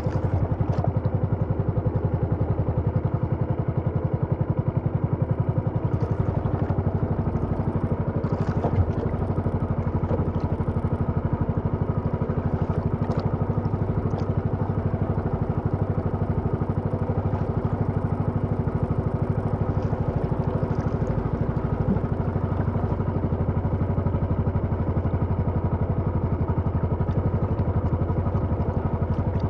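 A small engine running steadily at an even speed, with a fast regular firing pulse throughout.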